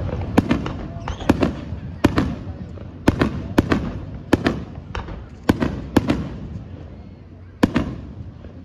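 Aerial firework shells bursting: a string of about a dozen sharp bangs, irregularly spaced, thinning out toward the end, with one last bang near the end.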